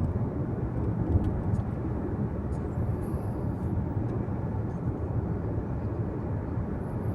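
Steady low rumble of a car driving at speed: road, tyre and engine noise, with a few faint light ticks.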